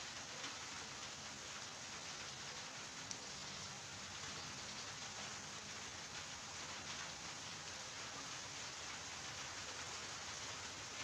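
Steady rain falling: an even hiss with fine patter of drops, and one sharper drip tick about three seconds in.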